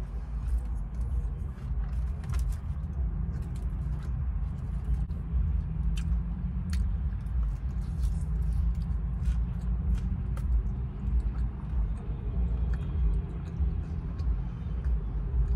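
Steady low rumble of a car engine idling, heard inside the cabin, with scattered soft clicks and chewing as cheese fries are eaten off a plastic fork.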